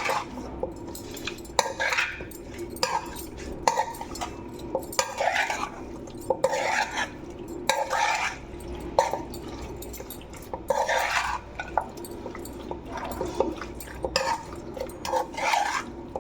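Raw chicken being mixed with onion and dry spices in a bowl for a tikka marinade: repeated wet swishing strokes about once a second, with sharp clicks against the bowl.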